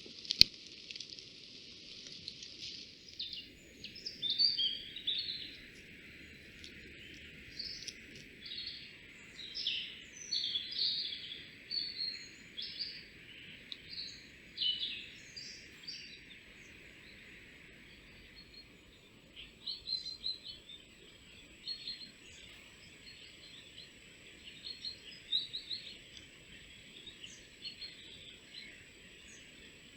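Small songbirds chirping in quick short calls, off and on, over a steady hiss. A single sharp click sounds just after the start.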